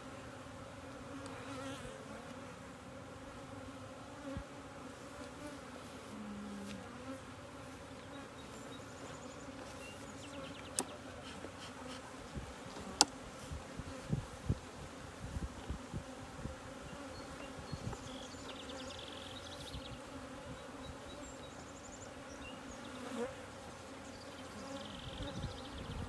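Thousands of honeybees buzzing steadily in an opened hive, with a few sharp clicks and knocks about halfway through.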